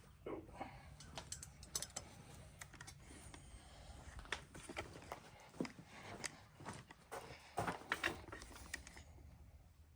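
Faint, irregular light clicks and metallic taps of hand tools and parts being handled, with a cluster of louder clicks about three-quarters of the way through.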